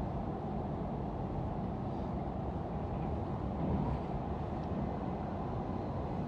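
Steady low rumble of a double-deck electric multiple-unit train running along the track, heard from inside the passenger cabin.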